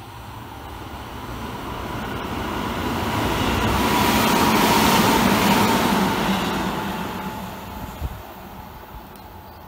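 Tobu 20400 series electric train approaching and running through the station past the platform without stopping. Its running noise builds to a peak about halfway and then fades, with a steady whine throughout and one sharp click near the end.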